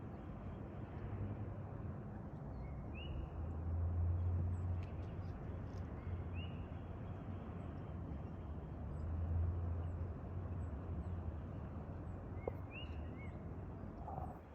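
Outdoor ambience: a steady low rumble that swells twice, with a few short rising bird chirps scattered through it.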